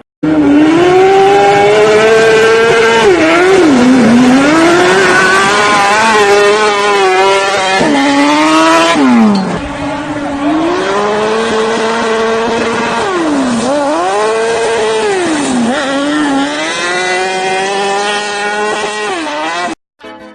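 A high-revving vehicle engine, its pitch climbing and falling again and again as it revs up and drops off, with several sharp swoops down. It gets somewhat quieter about halfway through and cuts off just before the end.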